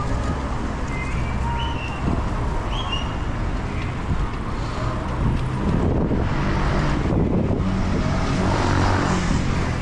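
Road traffic noise: a steady low rumble of passing motor vehicles, with a few short high chirps in the first three seconds.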